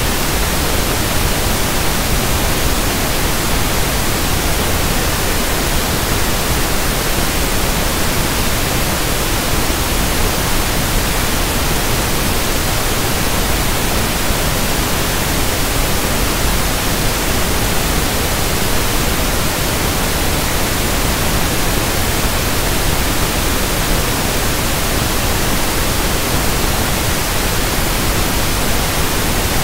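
Steady synthetic pink noise: an even, unchanging hiss across the whole range, with no events.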